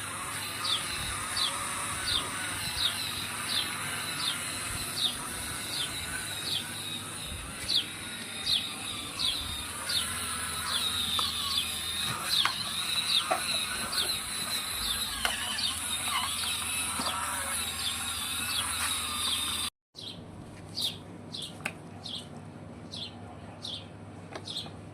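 A bird chirping over and over, short falling chirps about once or twice a second, over a steady high hiss. The sound cuts out for an instant near the end, then the chirping goes on.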